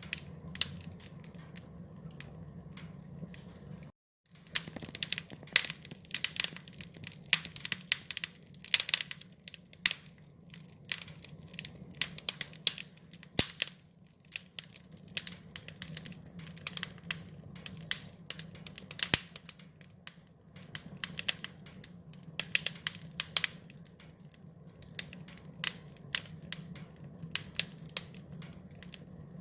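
Wood fire crackling: irregular sharp pops and snaps, several a second, over a steady low rumble. The sound drops out completely for a split second about four seconds in.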